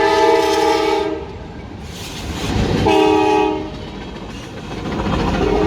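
Norfolk Southern diesel locomotive's multi-chime air horn sounding a crossing signal: a long blast that fades about a second in, a short one around three seconds in, and another long one starting near the end. The rumble of the passing train runs underneath.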